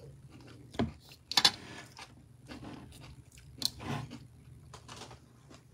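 A person chewing food close to the microphone, with a few short sharp clicks of a metal fork against the pot, the loudest about a second and a half in.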